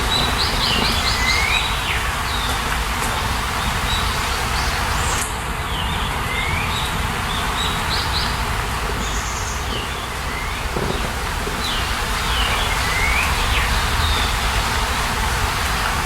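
A bird chirping, repeating a short phrase of quick notes and gliding whistles every few seconds, over a steady rushing background of natural noise.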